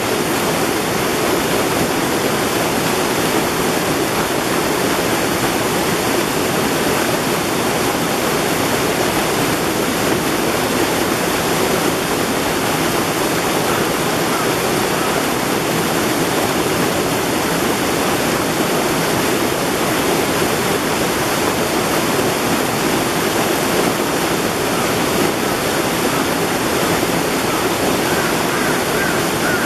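Water of a mountain valley stream rushing in a steady, unbroken flow.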